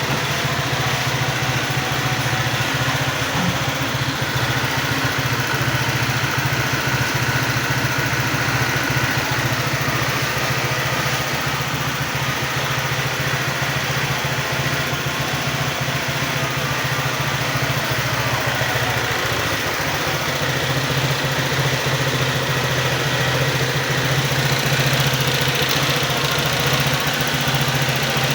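Honda PCX 150's single-cylinder four-stroke scooter engine idling steadily after its overhaul.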